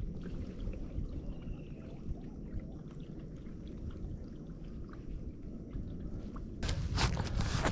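Kayak paddling in calm water: water pouring and dripping off the paddle blade over a low steady rumble, with louder splashes from paddle strokes near the end.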